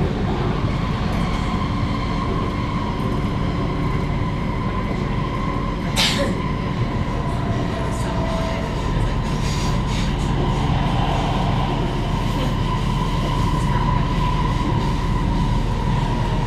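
Canada Line SkyTrain car running along the line, heard from inside: a steady rumble with a constant whine, and one sharp click about six seconds in.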